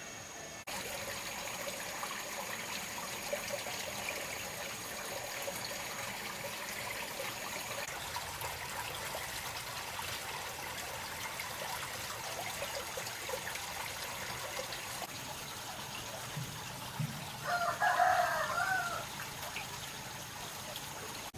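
One loud animal call, about a second and a half long, rings out about three-quarters of the way through over a steady background hiss.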